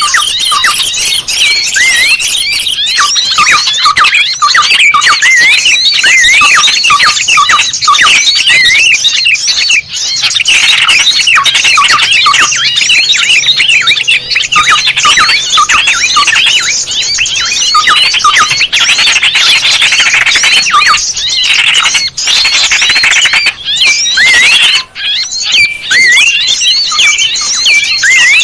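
A dense chorus of many small birds chirping and squeaking at once, with short overlapping high notes that rise and fall without a break. This is a bird-lure recording ('suara pikat') made to draw small birds in.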